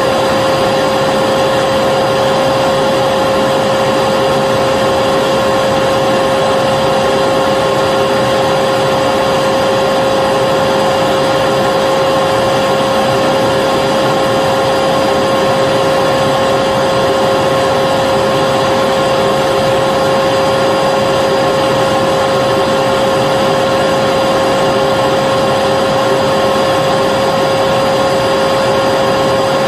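Vacuum cleaner motor running continuously at a steady pitch: an even whirring hiss with a constant whine, no change in speed.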